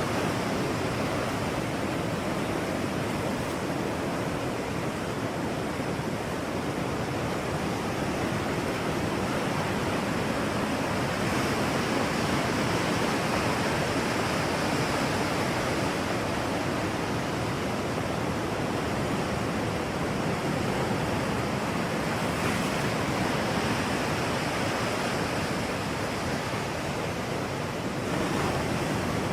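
Steady, even rushing noise of a natural outdoor ambience, like surf or strong wind, with no speech or music.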